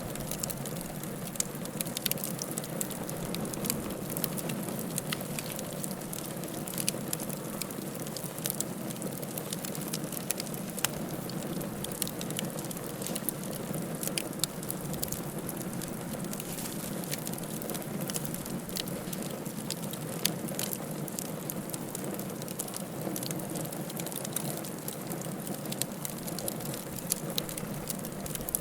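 Wood fire crackling, with frequent sharp pops and snaps scattered over a steady low rushing sound of the flames.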